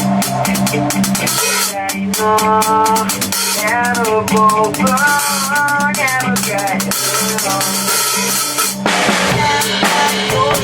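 A drum kit played along to a rock song, with bass drum and snare keeping a steady beat under a sliding melodic lead line. The cymbals grow denser near the end.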